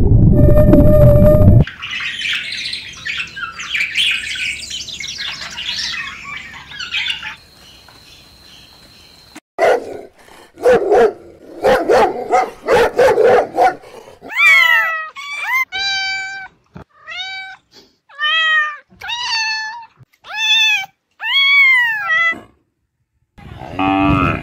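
A loud low rumble that cuts off about two seconds in, then a few seconds of high, busy chirping and squeaking. After that comes a run of short, sharp puppy barks, then about nine short, high puppy yelps, each rising and then falling in pitch.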